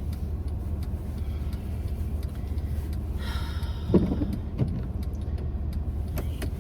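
Steady low rumble of a car's engine and road noise heard from inside the cabin while driving. About three seconds in there is a brief hiss, and about four seconds in a single short thump.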